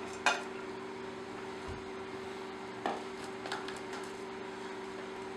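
Steady hum of a running microwave oven, with a few light knocks of kitchenware: a sharp one just after the start and softer ones around three seconds in.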